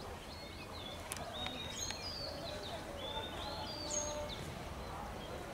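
Birds calling repeatedly with short whistled notes, many sliding downward, over a low steady background rumble.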